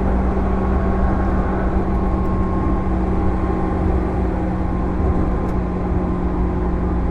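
Running sound inside a JR 205 series electric multiple unit motor car with MT61 externally-fanned traction motors, at steady speed. A low rumble carries steady hums that hold one pitch throughout.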